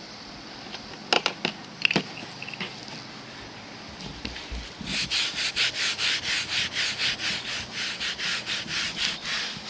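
Paper towel rubbing back and forth, wiping up spilled motor oil, in quick even strokes about three a second starting about five seconds in. A few light clicks come before it.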